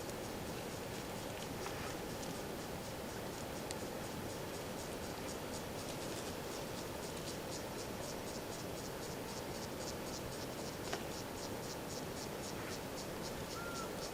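An insect chirping in a steady rhythm of about three or four high pulses a second, growing clearer partway through, over a steady low background hiss.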